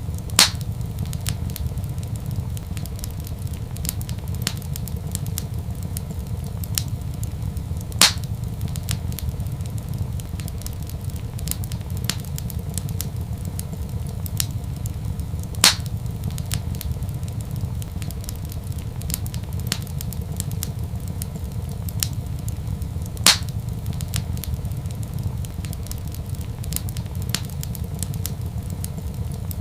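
Wood fire crackling in a fireplace over a steady low rumble, with small crackles throughout and four louder pops about seven to eight seconds apart.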